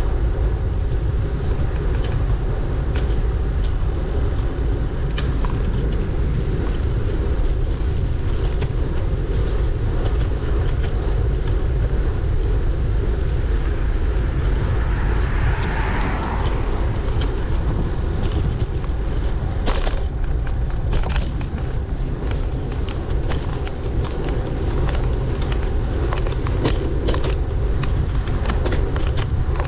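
Wind and road rumble on a bicycle-mounted camera's microphone while riding, with scattered rattles and knocks from the bike over bumps. A brief louder hiss swells and fades about halfway through.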